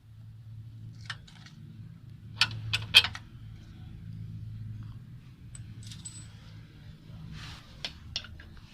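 Metal hand tools and car parts clinking and knocking in scattered sharp clicks, loudest around three seconds in, over a steady low hum.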